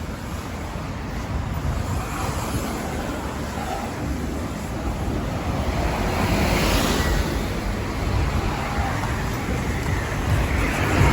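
Steady road traffic noise, with a vehicle passing by about six to seven seconds in and another coming up near the end.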